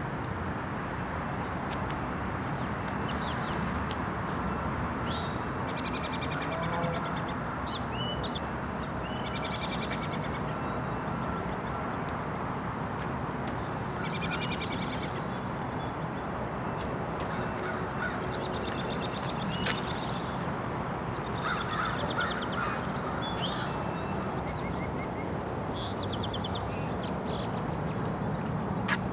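Birds calling repeatedly in short, rapid chirping trills every few seconds over a steady outdoor background noise.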